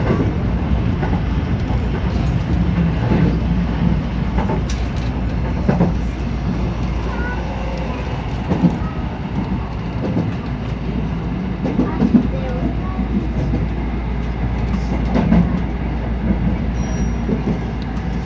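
A 207 series electric commuter train running, heard from the front of the train: a steady low rumble with the wheels knocking over rail joints every second or few.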